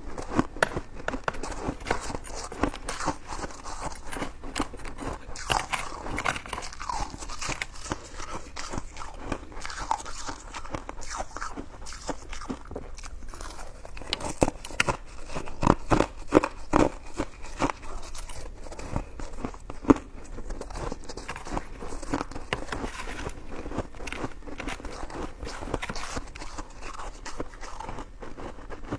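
Close-miked eating: biting and chewing soft, sticky coconut-coated rice cake, with a steady run of wet mouth clicks and crackles, a few louder bites in the middle.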